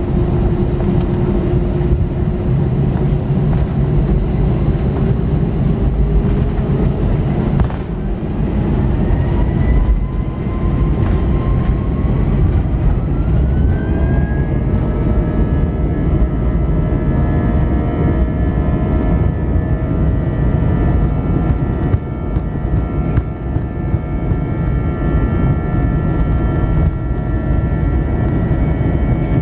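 Airbus A320's jet engines spooling up to takeoff thrust over a loud low rumble. A whine climbs in pitch over several seconds and settles into a steady high tone from about halfway through.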